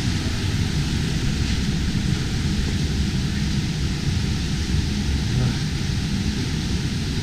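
Steady rushing of a waterfall, an underground river gushing out of a grotto into a deep plunge pool.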